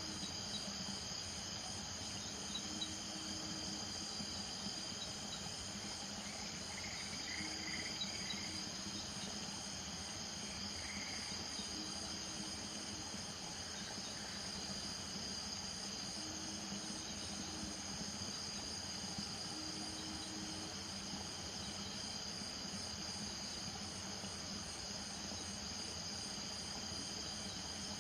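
Nighttime chorus of crickets and other insects in steady high-pitched trills, with a low frog call of about a second repeating every few seconds.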